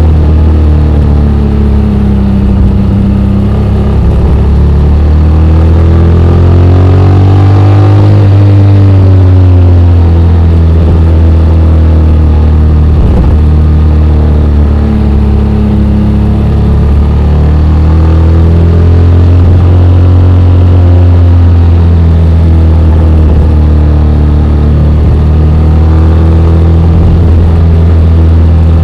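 Honda X-ADV 750's parallel-twin engine running, heard raw while riding downhill. Its pitch climbs about seven seconds in and eases back by ten, then rises and falls again around eighteen to twenty seconds.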